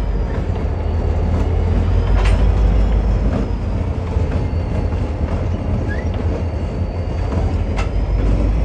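A train rolling by: a steady, heavy low rumble with a few sharp metallic clanks and a faint, thin high squeal from the wheels.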